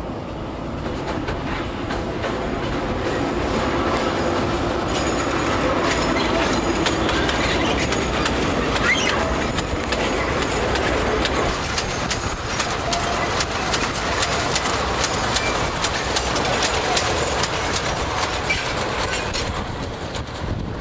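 Narrow-gauge sugar cane train rolling past, its wagon wheels clicking over the rail joints. It grows louder a few seconds in and eases off near the end.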